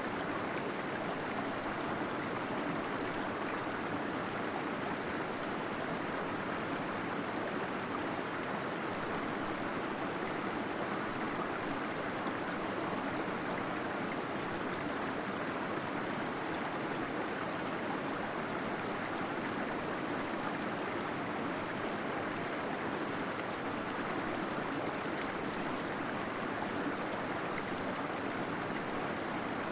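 Small waterfall running steadily, an even, unchanging rush of falling and gurgling water.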